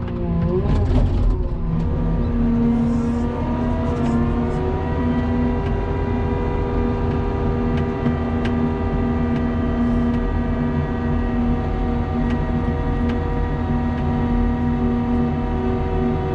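Snow-plowing vehicle's engine rising in pitch over the first few seconds, then running steadily at high speed.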